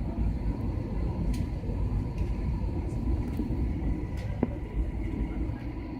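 Steady low rumble of an airliner's engines and airflow heard inside the cabin during the approach for landing, with a faint steady tone and a few light clicks.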